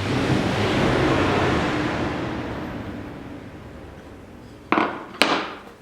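Hand-tool work on wood: one long scraping stroke that swells and fades over about three seconds, then two sharp wooden knocks about half a second apart near the end.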